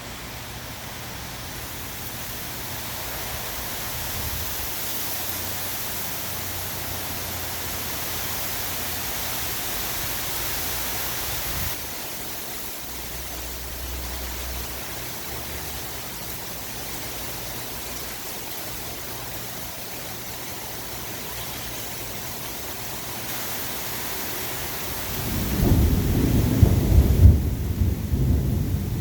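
Steady rain falling, with a loud low rumble of thunder rolling in near the end.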